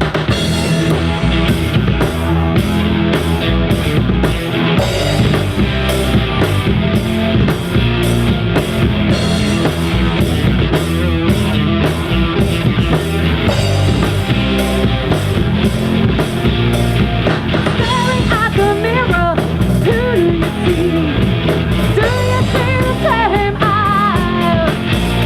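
Live rock band playing the song's instrumental opening: steady drum kit beat with guitar and bass. A wavering melody line comes in on top about three-quarters of the way through.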